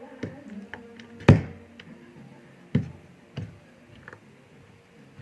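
A few scattered sharp knocks and clicks of a hand eating from a plate, fingers and food tapping against the dish, the loudest about a second in.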